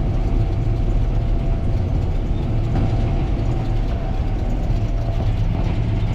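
Gleaner R72 combine running steadily while harvesting rye: a continuous low engine and threshing drone with a faint steady whine above it.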